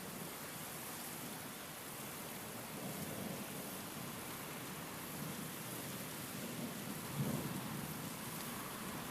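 Steady rain with wind. A low rumble swells a few times, strongest about seven seconds in.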